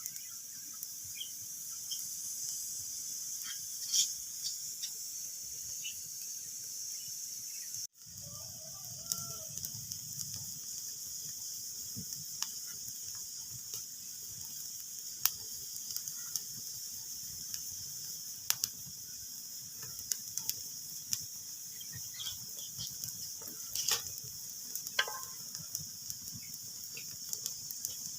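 Wood fire crackling in a fireplace: a steady hiss with irregular sharp pops and snaps, a few louder than the rest. The sound cuts out for an instant about eight seconds in.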